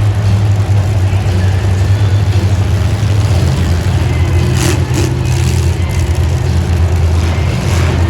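Demolition derby car engines running loud and steady, with a brief loud burst of noise about four and a half seconds in.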